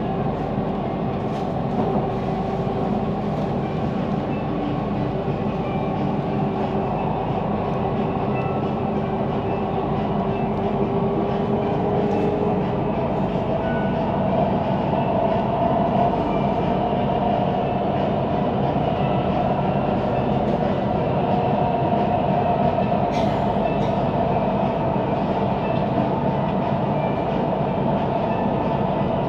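Siemens Inspiro metro train running at speed, heard from inside the carriage: a steady rumbling rolling noise from the wheels and track, with a weird rolling sound, and a motor hum that shifts upward in pitch about halfway through.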